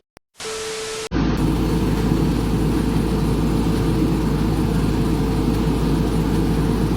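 After a brief silence and a short steady hum, a motor vehicle's engine runs steadily with a low rumble.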